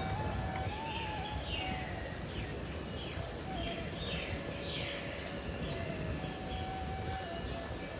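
Birds calling outdoors: short, high, arched chirps repeating about once a second, over a steady high insect buzz and low background noise.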